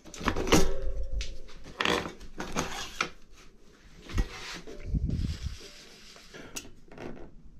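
Metal clicks, clinks and knocks as a Hope Tech4 V4 brake caliper with fresh pads is handled and fitted back onto a mountain bike's brake mount, with tools handled alongside. The denser knocks come in the first few seconds, then softer handling noise with one sharp click.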